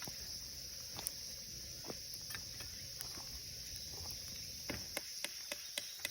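Small wood fire crackling with scattered sharp pops, which come faster near the end, over a steady high insect drone.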